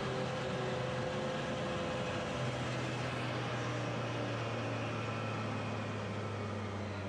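Can-Am Maverick X3 Turbo R's turbocharged three-cylinder Rotax engine running steadily under way, its note falling gradually through the second half as the machine slows.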